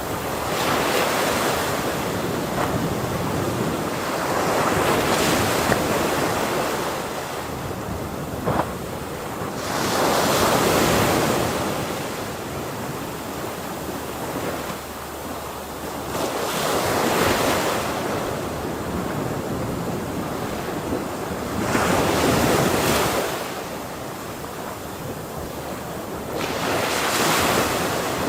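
Ocean waves breaking and washing on the shore, the surf swelling and fading about every five to six seconds.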